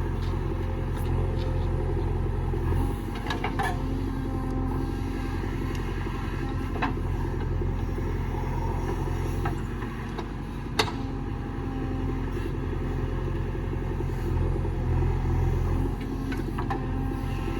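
JCB 3DX backhoe loader's diesel engine running steadily at work, its note swelling now and then as it takes load. Occasional sharp metallic clanks come through, the loudest about eleven seconds in.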